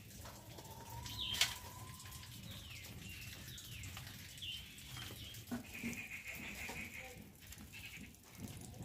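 Small birds chirping in short calls that slide down in pitch, then a rapid trill about six seconds in, over a low steady hum. There is one sharp click about a second and a half in.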